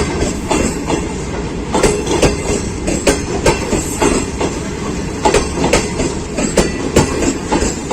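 Passenger coaches of the Karakoram Express rolling past at speed, a steady rumble broken by sharp wheel clicks over the rail joints, mostly in quick pairs as each bogie crosses.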